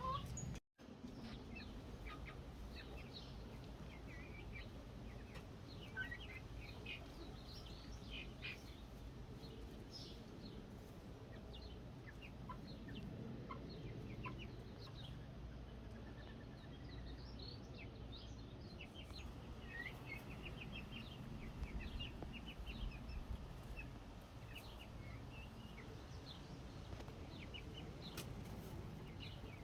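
Young chickens peeping and softly clucking: many short, high calls scattered throughout, faint over a low steady background rumble.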